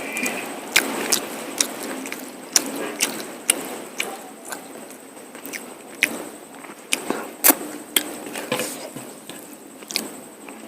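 Close-miked eating of mutton curry and rice: wet chewing with irregular sharp lip smacks and mouth clicks, several a second.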